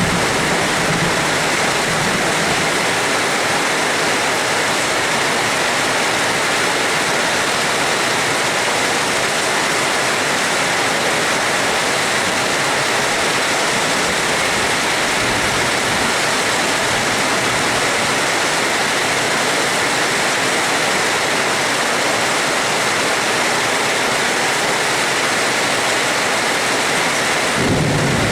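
Steady, heavy rain falling in an even hiss. A low rumble comes in just before the end.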